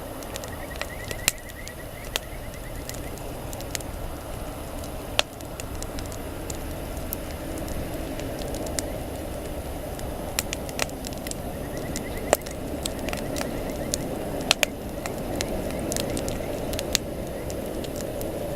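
Wood campfire burning: a steady rush of flame with irregular sharp pops and crackles from the burning wood.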